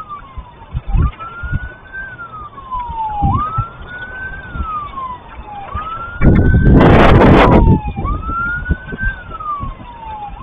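Emergency vehicle siren in a slow wail, rising for about a second and falling back, cycling over and over, with wind buffeting the microphone in low thumps. About six seconds in, a loud burst of noise, distorted by clipping, covers everything for about a second and a half.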